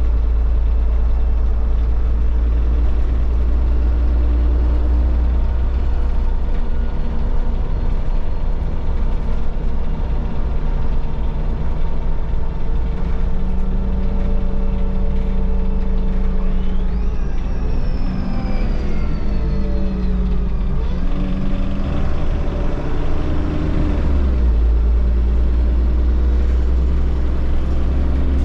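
A first-generation Solaris Urbino 15 city bus heard from inside its empty passenger cabin while driving: the diesel engine and drivetrain give a steady deep drone. In the middle, tones glide up and then down in pitch as the bus speeds up and slows.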